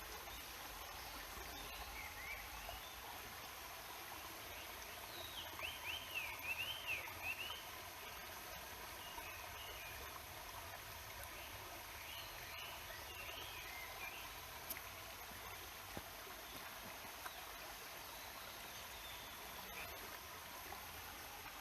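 Stream water flowing with a steady rushing hiss, and songbirds calling over it: a burst of quick rising-and-falling chirps about five to seven seconds in, with shorter calls later.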